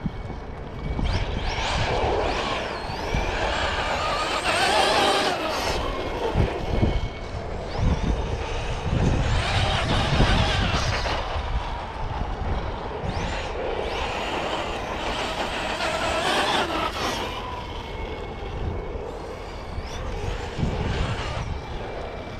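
Electric motors of hobby-grade RC cars whining as they speed up and slow down, the pitch rising and falling again and again over a low rumble.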